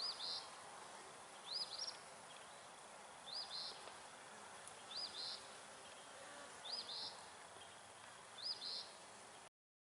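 A songbird repeating the same short, high two-part call six times, about every second and a half to two seconds, over a faint steady hiss. The sound cuts off suddenly near the end.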